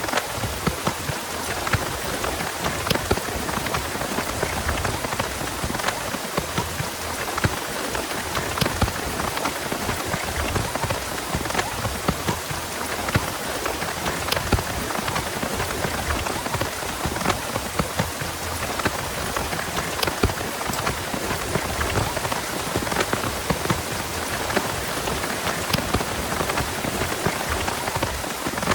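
Heavy rain falling steadily, with many sharp individual drops pattering close by.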